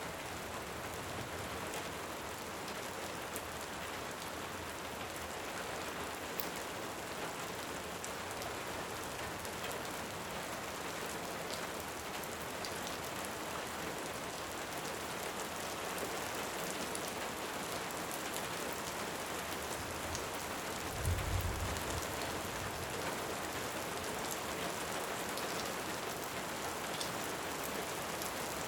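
Steady rain falling, an even hiss with a few faint sharp crackles from a wood fire. About two-thirds of the way through, a brief low rumble of distant thunder.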